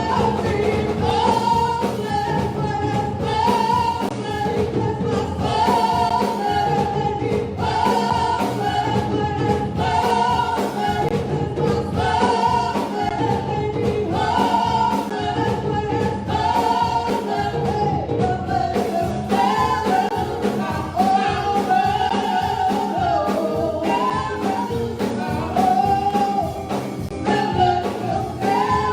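Gospel worship music: singers over a live band accompaniment.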